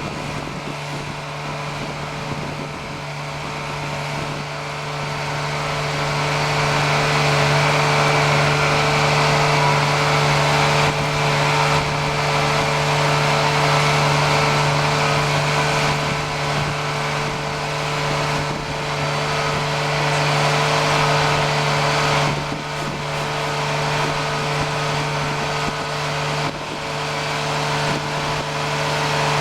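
Peterson blower truck running: a steady mechanical hum over a rushing hiss, getting louder about six seconds in.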